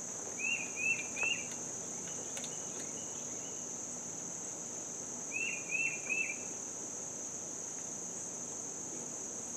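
Steady high-pitched insect trill throughout, with a bird giving three quick chirps twice, once near the start and again about five seconds in.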